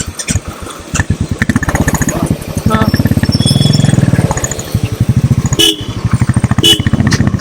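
Royal Enfield motorcycle engine running with a rapid, even exhaust beat, which grows much louder about a second in.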